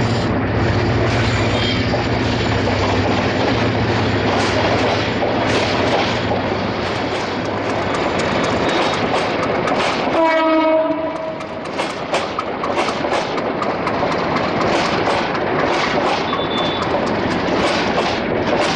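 Bangladesh Railway passenger train rolling along the tracks with a steady rumble and low hum. About ten seconds in, a short horn blast sounds. After it, the wheels clack rhythmically over the rail joints, about two clacks a second.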